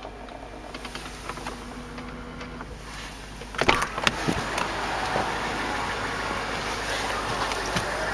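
Electric folding side-mirror motors whirring with a steady hum for about the first three seconds. Then a loud clunk comes about three and a half seconds in, followed by a louder steady rush of noise.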